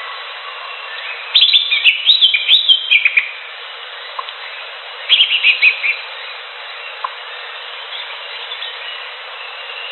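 Green leafbird (cucak hijau) singing: a loud run of rapid, high warbling notes starting about a second in and lasting some two seconds, then a shorter burst around five seconds. A steady faint hiss with scattered soft chirps lies underneath.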